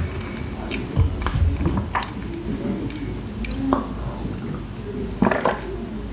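Close-miked chewing of food with wet, smacking mouth sounds, and a sip of tea from a glass partway through.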